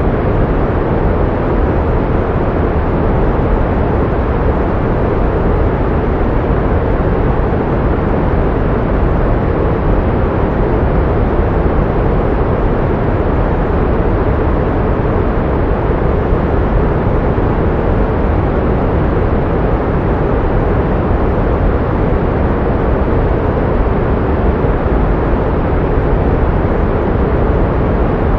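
Pink noise: a steady, even hiss weighted toward the low end, its highs fading out.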